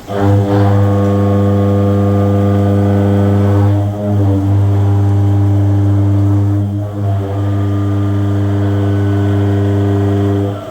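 CNC milling machine motor running with a loud, steady low hum that switches on abruptly, dips briefly twice, and cuts off shortly before the end.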